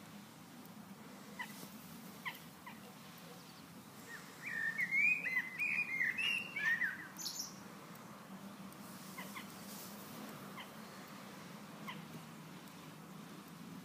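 Birds chirping: scattered short chirps, with a louder run of quick warbling song starting about four seconds in and lasting some three seconds.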